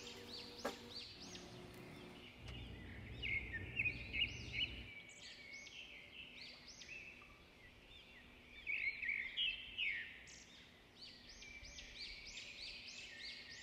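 Small birds chirping and twittering, a busy run of short high chirps that thins out in the middle and picks up again near the end. A low hum sits under them for a couple of seconds near the start.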